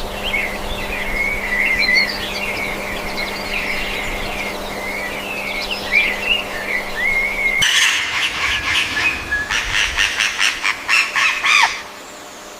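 Bird song: a warbling song with wandering pitch over a low steady hum. Then, after an abrupt change about two thirds of the way in, a different bird gives a rapid series of repeated calls, about four a second, that stops suddenly near the end.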